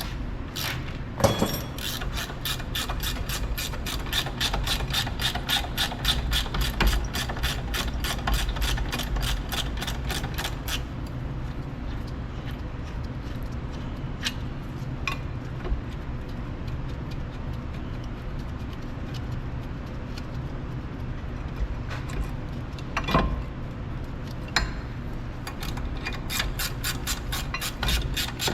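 Ratchet wrench clicking rapidly as it spins out the 17 mm caliper mount bolts. The clicking runs for about ten seconds, goes quieter with a few single knocks, and starts again near the end.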